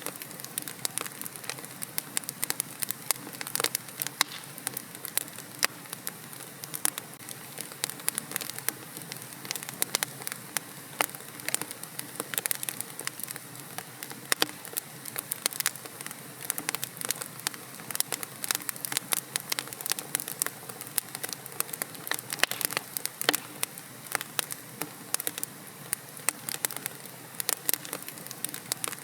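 Wood fire crackling steadily in a fireplace: dense, irregular sharp pops and snaps over a soft steady hiss of burning.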